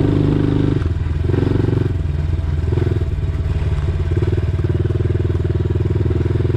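Dirt bike engine running under way, the revs easing and picking up again several times as the throttle is worked.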